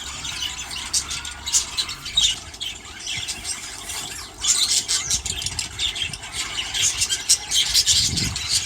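A flock of budgerigars calling at once in an aviary flight: many short, high calls overlapping in a continuous chatter.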